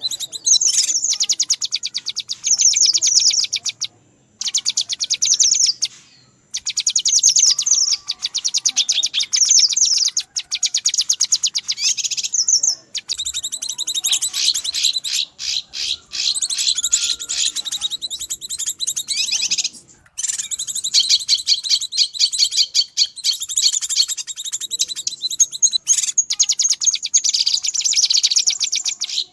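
Cucak kinoi calls from a bird-lure recording: loud, rapid high-pitched chattering trills in long runs broken by a few short pauses, the agitated 'ribut' calling used to lure wild kinoi.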